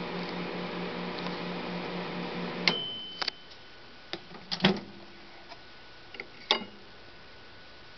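Samsung Mini Chef microwave oven running with a steady hum, which cuts off about a third of the way in with a click and a short high beep as the cooking cycle ends. Several sharp clicks and knocks follow.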